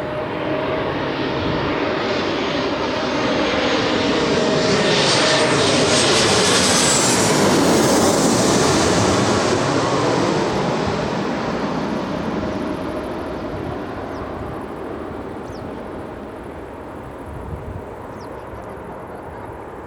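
A passenger jet flying past close by. Its engine noise builds to a peak about eight seconds in, then fades, and the whine drops in pitch as it goes by.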